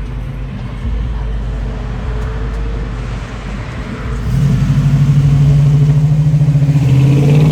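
A motor vehicle's engine running at a low drone, then a louder, steady engine note with a rapid pulse from about four seconds in.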